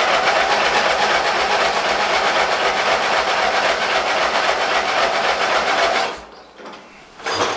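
Ride-on mower's 12 horsepower petrol engine turning over and running with a slow, regular beat for about six seconds, then cutting out suddenly. It is short of fuel, still being drawn up from the petrol tank into the carburettor.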